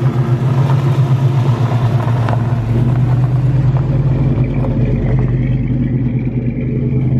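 Car engine running at a steady speed, a loud, even low drone with no change in pitch.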